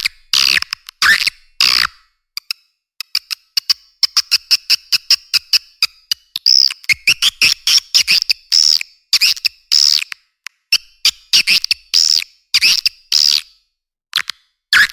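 Swiftlet call recording of the kind played to lure swiftlets into nesting houses: quick runs of sharp clicks mixed with buzzy chirps. The middle stretch is fast clicking, then chirps repeat about twice a second with a short pause near the end.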